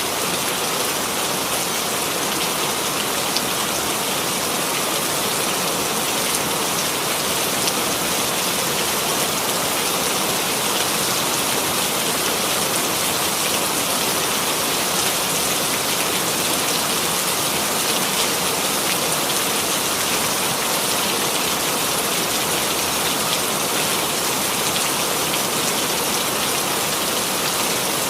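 Steady rainfall sound effect: a constant, even hiss of rain with scattered faint drop ticks.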